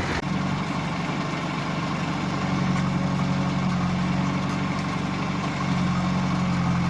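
Diesel engine of a JCB 3DX backhoe loader (Kirloskar engine) running steadily at idle, a constant low hum.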